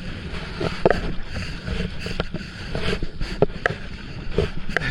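Water sloshing and splashing around a kayak, with scattered short knocks and a low wind rumble on the microphone.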